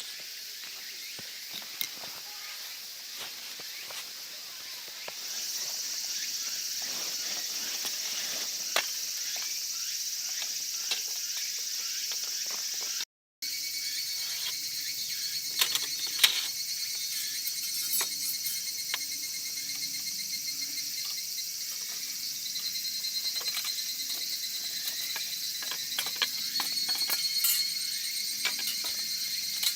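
Insects chirring steadily in a high, even drone, with scattered small clicks and knocks from handling things.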